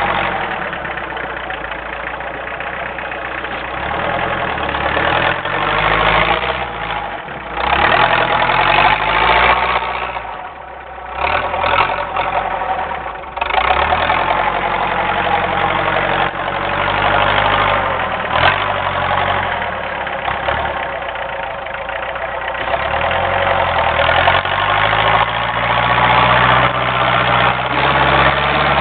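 Homemade doodlebug tractor's diesel engine running under load while plowing heavy wet snow, its speed rising and falling repeatedly, with a brief drop in revs a little past the middle.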